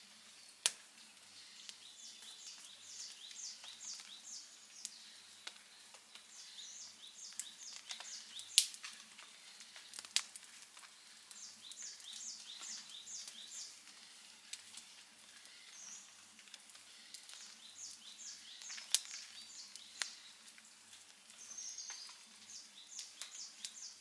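Campfire crackling, with irregular sharp pops, several of them loud, over a soft hiss. Behind it a high chirping call repeats in quick runs every few seconds.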